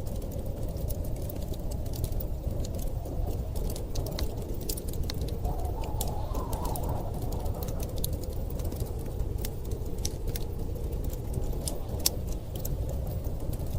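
Wood fire crackling in a fireplace, with many irregular sharp pops and snaps, over a steady low rumble of blizzard wind.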